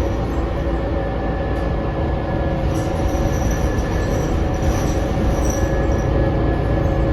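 Interior ride noise of a New Flyer XD40 diesel city bus under way: a steady low drivetrain rumble with a constant hum, and a high-pitched whine that joins about three seconds in and wavers on and off. The bus's running sound is unusual enough that a regular rider calls it insane.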